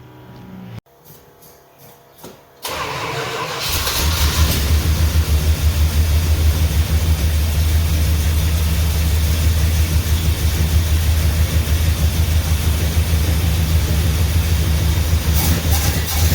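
A truck's 400 big-block V8 starts up about three seconds in and then runs steadily with an even, pulsing beat. It actually sounds decent.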